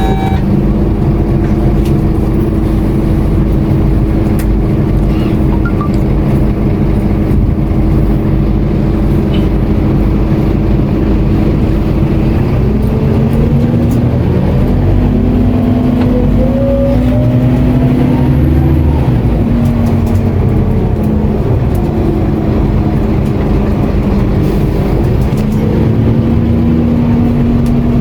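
Scania K230UB city bus's engine heard from inside the cabin: running steadily for about the first twelve seconds, then pulling away with the pitch rising through the gears, and rising again near the end.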